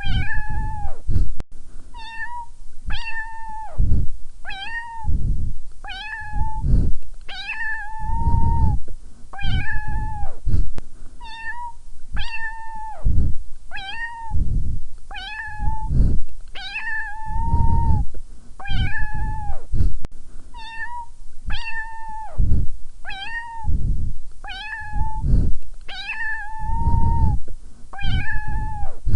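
A cat meowing over and over, roughly one meow every second or so, each call held on a level pitch and then dropping away at its end.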